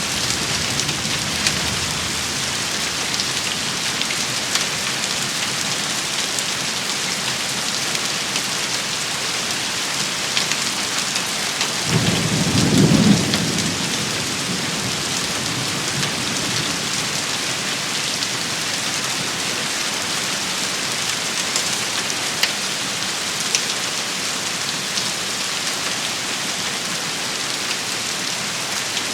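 Steady heavy rain shower pattering on surfaces, with a few sharper drop ticks. About twelve seconds in there is a brief low rumble of thunder, the loudest moment.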